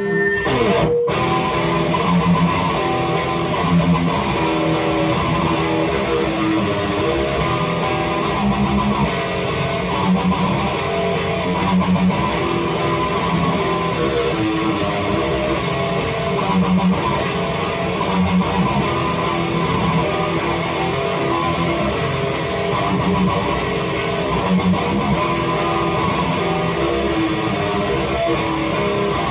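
Electric guitar playing heavy, high-gain distorted riffs through a REVV G3 distortion pedal set to its red mode, the pedal's most aggressive and heaviest gain setting. The playing is continuous and steady in loudness.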